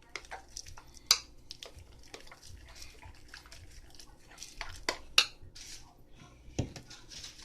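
Foam-bead slime being stirred in a bowl: irregular clicks, scrapes and squishes, with a few sharper knocks about a second in and again around five seconds in.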